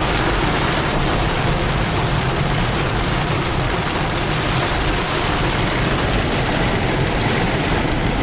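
Steady noise of a car driving in heavy rain, heard from inside the cabin: rain on the car and tyres on the wet road.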